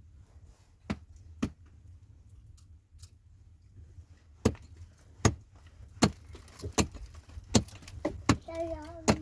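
A series of sharp knocks or strikes: two single ones early, then a fairly regular run of about one every three-quarters of a second. A short high voice is heard near the end.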